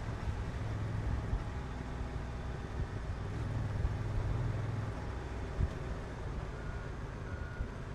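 Honda NT1100's parallel-twin engine running steadily on the move, heard from the bike. Its note eases back about five seconds in.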